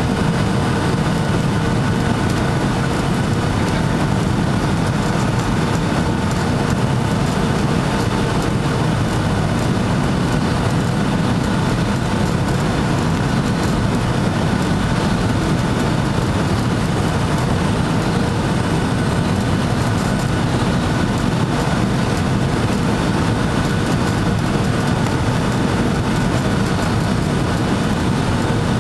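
Steady jet engine and airflow noise heard inside a Boeing 757-200 passenger cabin, a deep even rumble with faint steady engine tones above it.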